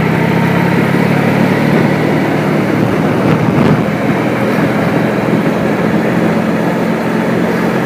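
Motorcycle engine running at a steady cruise, heard from the rider's own camera with a constant rush of wind and road noise.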